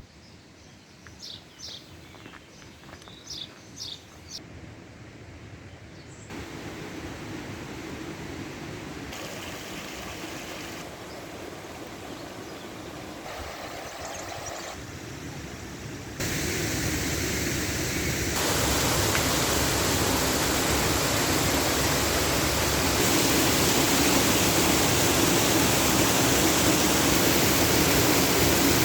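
Water pouring from the many spouts of a public fountain into its basin: a steady rush that grows louder in sudden steps and is loudest from about halfway on. A few short high chirps come in the first few seconds.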